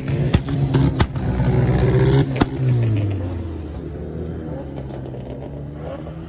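A car engine revving, with several sharp cracks over the first two and a half seconds; then the revs fall and it settles to a steadier, quieter run.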